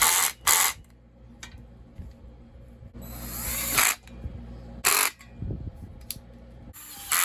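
Cordless drill/driver driving the chainsaw muffler's fasteners home in several short runs, each rising in pitch and then stopping sharply.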